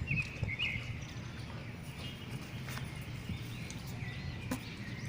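Small birds chirping on and off over a steady low background rumble, with a few sharp clicks scattered through.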